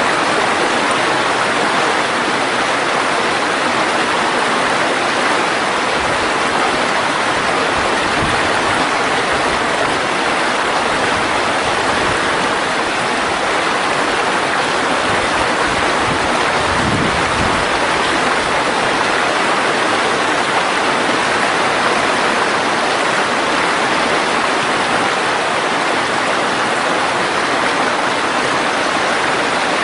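Mountain stream rushing and splashing over rocks, a steady, even sound of flowing water.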